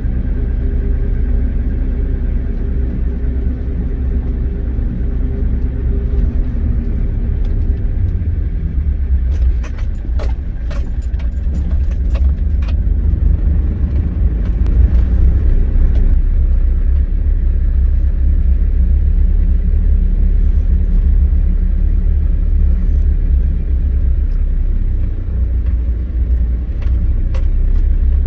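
Old GMC logging truck's engine running under load with a heavy, steady rumble, its pitch shifting partway through and growing louder about halfway in. A burst of metallic rattles and knocks comes through around ten to thirteen seconds in.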